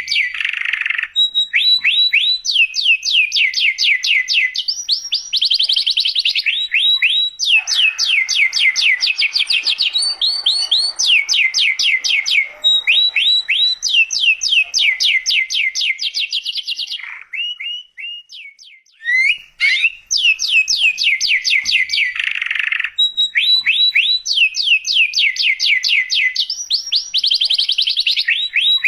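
Domestic canary singing continuously: long trills of rapid, repeated descending notes, one phrase after another, with a brief pause about two-thirds of the way through.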